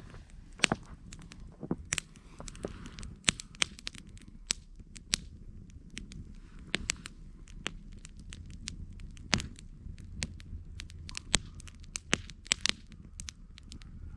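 Campfire crackling: wood popping and snapping in irregular sharp clicks, several a second, over a low steady rush of burning.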